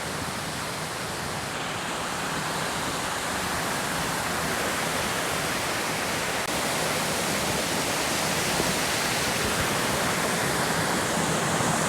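Creek water rushing over a small waterfall: a steady rush of noise that grows slowly louder. The water is running high after rain.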